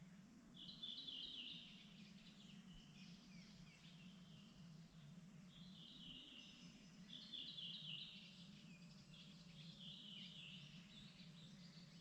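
Faint songbirds singing short, fast trilled phrases, one after another every second or two, over a low steady background rumble.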